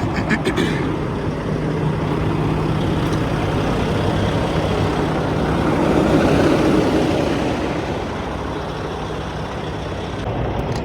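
Diesel semi-truck running at idle with a steady low hum, and a broad rush of noise swelling around the middle and fading.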